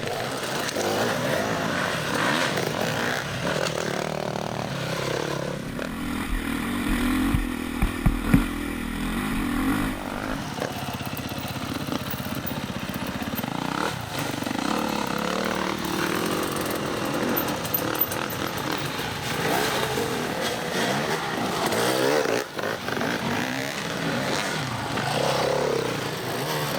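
Dirt bike engines revving up and down as the bikes are ridden along forest single trail, with a few knocks about a third of the way in.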